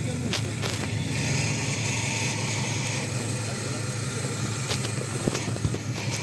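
Off-road vehicle engine running steadily, with a few short knocks and clunks over it.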